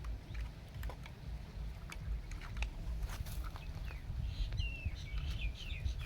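Birds chirping in a quick run of short calls starting a little past the middle, over a low rumble and scattered clicks.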